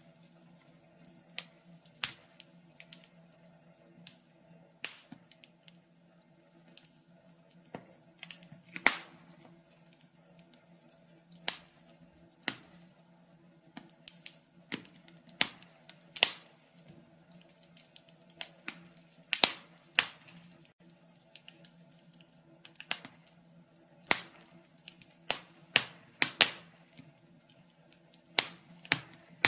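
Wood fire burning in a fireplace, crackling with irregular sharp pops and snaps of the burning logs, some loud, over a faint steady low hum.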